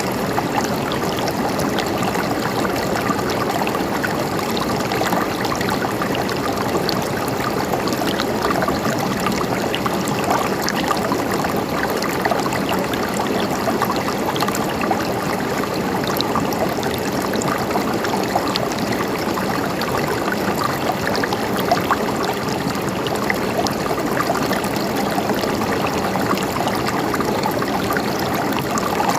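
Running water gurgling steadily, a continuous trickling flow with small splashing ticks throughout.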